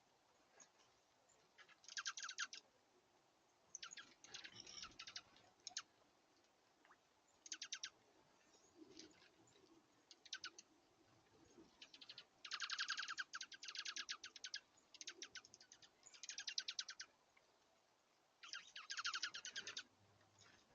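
Small songbirds calling in short, fast trills, a run of rapid notes each lasting under a second to about a second, repeated about ten times with quiet gaps between.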